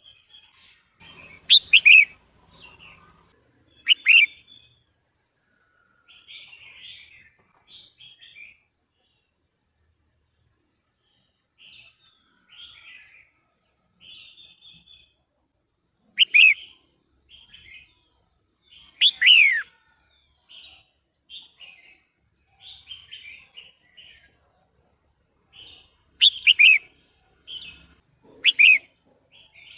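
Female red-whiskered bulbul calling: about six loud, sharp calls that sweep down in pitch, with softer chattering notes in between.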